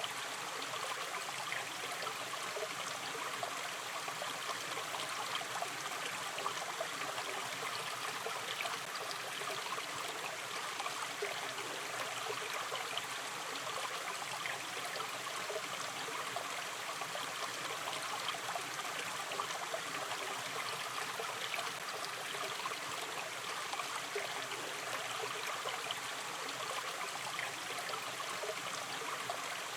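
Gentle river stream flowing steadily, water trickling and burbling over stones.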